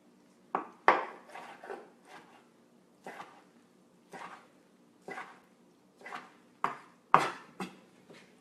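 Knife cutting cooked chicken into a medium dice on a cutting board: slow, separate chops about once a second, a few coming in quick pairs.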